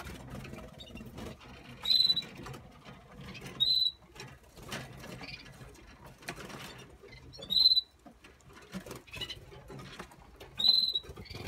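Canaries in breeding cages giving four short, high-pitched calls a few seconds apart, over a light patter of clicks and rustling from the birds moving about the cages.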